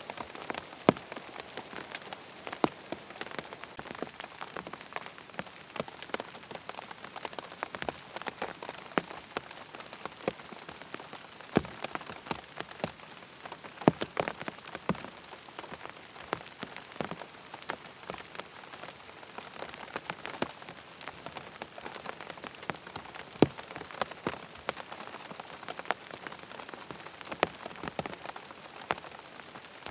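Steady rain, an even hiss dotted with many sharp, irregular drop ticks, a few of them louder.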